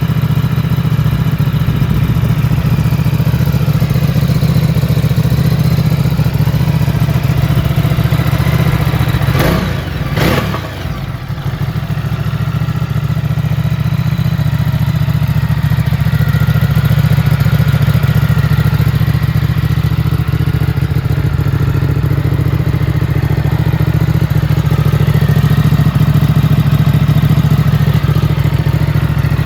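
Ducati Multistrada 950's 937 cc Testastretta L-twin engine idling steadily. About ten seconds in there are two sharp knocks, a little under a second apart.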